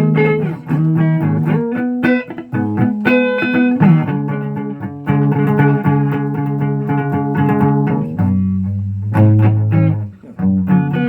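Guitar playing: picked notes and chords, with short breaks in the playing about eight and ten seconds in.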